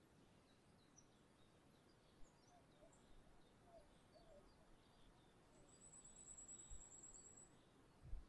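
Faint, scattered chirps of small birds, with a high, rapid trill lasting about two seconds past the middle. A brief low thump near the end is the loudest sound.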